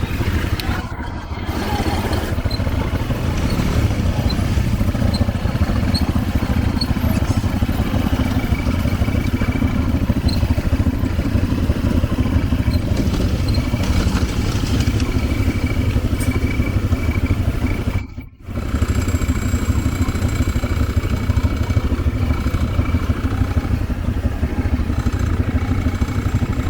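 ATV engine running steadily as the quad is ridden along a trail, with some rattling. The sound drops out for a moment about two-thirds of the way through.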